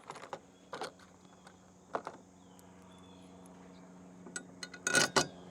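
Small metal bolts and hardware clinking and knocking as they are handled: a few scattered light clicks, then a louder cluster of clinks near the end, over a faint steady low hum.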